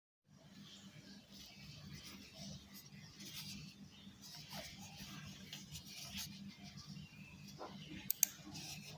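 Handling noise from a small plastic wireless computer mouse: scraping, rustling and small ticks, with two sharp clicks close together near the end, over a steady low hum.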